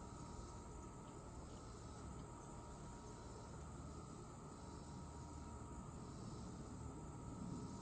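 Crickets chirring in a steady, faint, high-pitched chorus that holds unbroken, over a low outdoor rumble.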